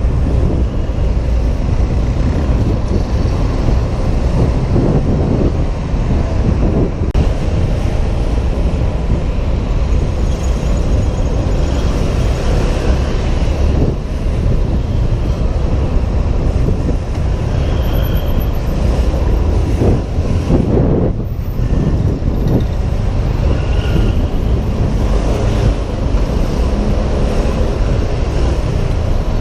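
Wind buffeting a helmet-mounted camera's microphone while riding a Honda PCX 125 scooter, with the scooter's engine and surrounding road traffic underneath. The noise is loud and steady throughout.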